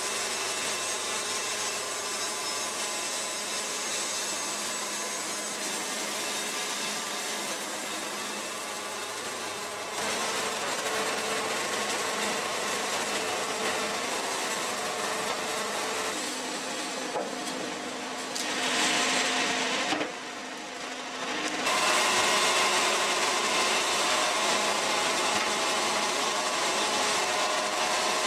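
Band sawmill sawing small pine logs, the blade running through the wood with the mill's engine going. The sound drops briefly about twenty seconds in, then comes back louder.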